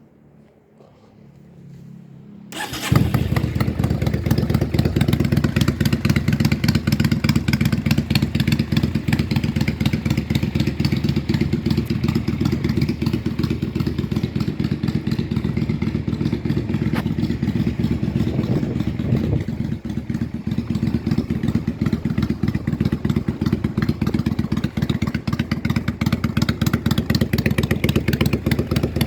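Yamaha Drag Star 400 Classic's air-cooled V-twin engine being started: a couple of seconds of starter cranking, then the engine catches about two and a half seconds in and runs steadily at idle.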